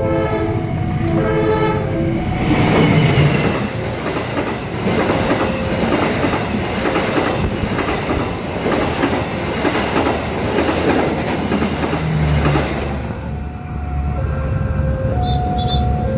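A train passing fast over a level crossing, its wheels clacking rapidly over the rail joints. Near the start and again near the end the crossing's electronic warning alarm sounds in alternating tones.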